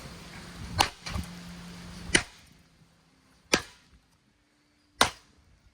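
Four hard blows, about a second and a half apart, smashing into an old ceiling fan's metal motor housing, each a sharp crack with a brief ring. A low steady hum underneath stops after the second blow.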